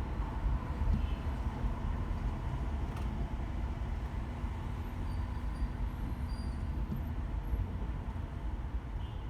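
Car driving in slow city traffic: a steady low rumble of engine and road noise, with a single sharp click about three seconds in.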